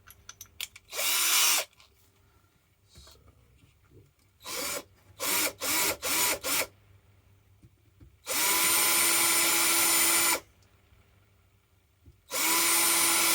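Power drill run in bursts while countersinking a drilled hole and driving a screw through it: a short run about a second in, four quick pulses a few seconds later, then two longer runs of about two seconds each, the motor whine rising as it spins up each time. Light clicks of handling come between the runs.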